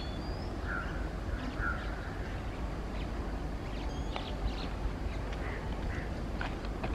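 Birds calling in short chirps and squawks over a steady low rumble.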